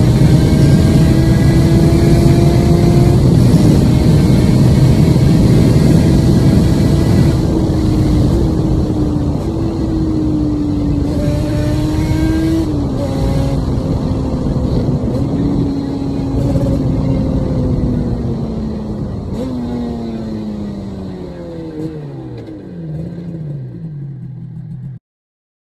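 Yamaha TZR 250 two-stroke parallel-twin motorbike, on ported cylinders and aftermarket expansion-chamber exhausts, ridden under load: the engine note holds high with small pitch steps at gear changes, then falls away as the bike slows, with several short rising-then-falling blips near the end, and cuts off suddenly.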